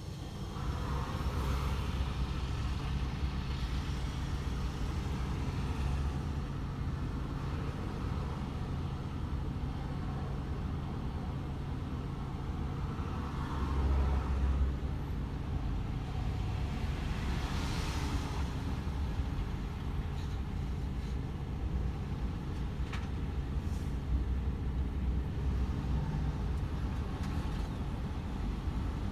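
DAF XF 510 truck's diesel engine droning steadily at cruise, with tyre and road noise. A few broad swells of louder rushing noise come about halfway through and again a few seconds later.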